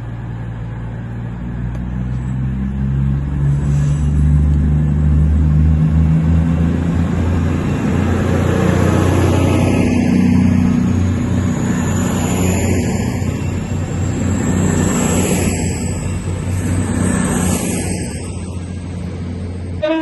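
A train running slowly past, its engine giving a low steady drone whose pitch climbs in the first few seconds. A faint high whine rises through the second half, with a regular change in the sound every two to three seconds.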